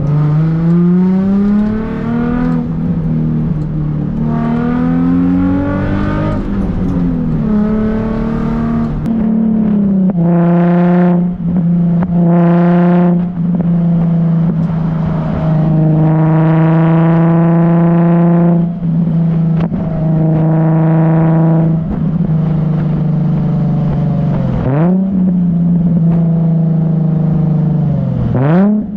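Nissan 350Z's 3.5-litre V6 running through an ISR Performance aftermarket exhaust and Y-pipe, revved repeatedly: the note climbs and falls, with two short high holds, then two longer held revs, each dropping back to a lower steady run.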